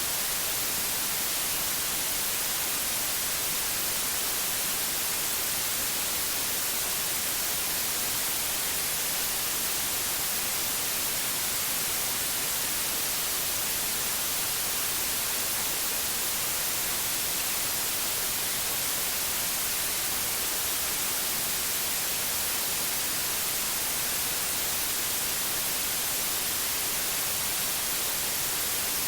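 Steady synthetic white noise: an even, unbroken hiss, brightest in the high frequencies.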